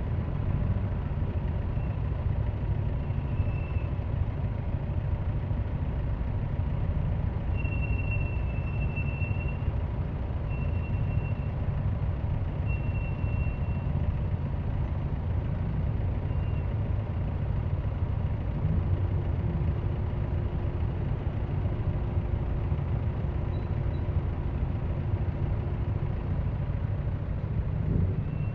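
Yamaha Aerox V3 scooter's single-cylinder engine running steadily at low revs amid city traffic. Short high-pitched tones come and go several times in the first half, and another steady tone joins for several seconds past the middle.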